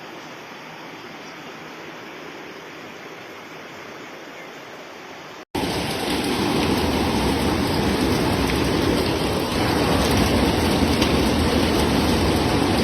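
Steady noise of water in a flood. About five and a half seconds in it cuts abruptly to a much louder stretch of the same rushing noise.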